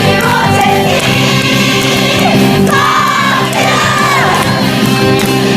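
Live musical-theatre song: voices singing and calling out over a steady band accompaniment.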